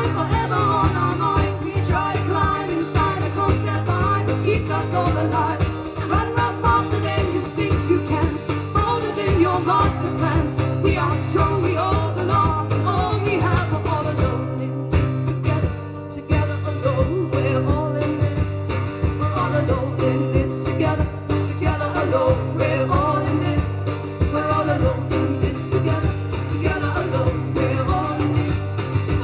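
Live band music: guitars playing over a steady bass line with a wavering melody, in a passage with no sung words, briefly dropping in level about halfway through.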